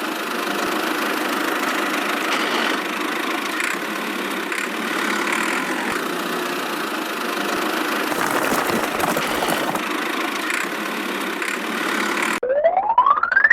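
A small motor running steadily with an even mechanical noise. Near the end a smooth rising whistle-like glide cuts in over it.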